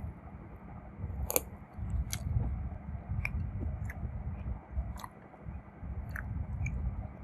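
Close-miked chewing of crunchy food, a steady low mashing sound broken by sharp crisp crunches, the loudest about a second and two seconds in.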